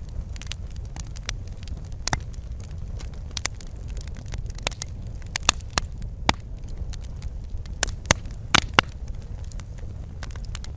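Wood fire crackling in a fireplace: irregular sharp pops and snaps over a steady low rumble of burning, with a cluster of louder pops in the second half.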